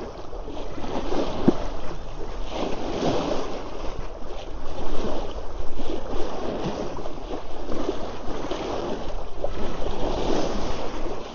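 Water rushing and splashing along the hull of a sailing yacht under way, rising and falling in surges, with wind.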